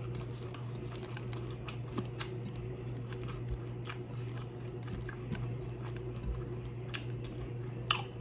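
Close-miked chewing and crunching of a hard-shell ground-beef taco, with scattered sharp crackles of the shell and soft squishy handling of the filling, over a steady low hum.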